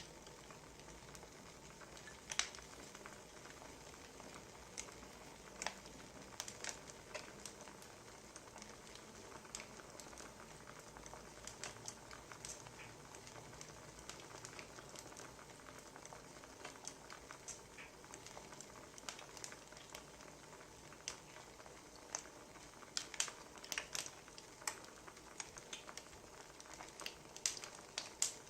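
Wood fire crackling: a faint steady hiss with irregular sharp pops, coming thicker near the end.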